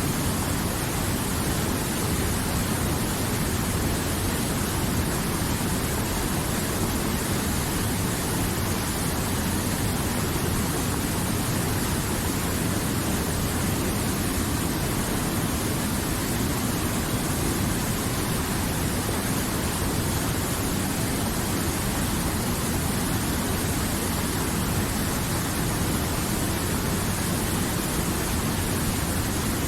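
River water flowing, a steady rushing noise that keeps an even level throughout.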